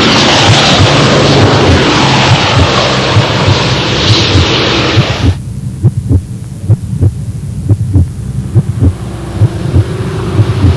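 A loud hiss over a low throbbing hum. About five seconds in, the hiss cuts off suddenly, leaving a run of low thumps at about three a second.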